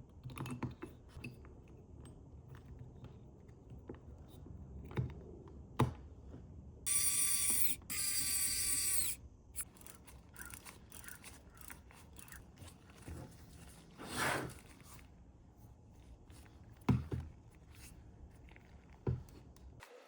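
Clicks, knocks and scrapes of small parts being handled, with two high-pitched whirring hisses of about a second each near the middle.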